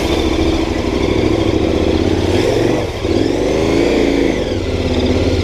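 KTM 1090 Adventure R's parallel-twin engine running under throttle off-road; the revs dip briefly about three seconds in, then rise and fall again.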